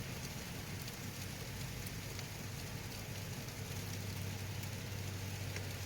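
Steady road and engine noise inside a moving car's cabin: a low hum under an even hiss, with a few faint light ticks.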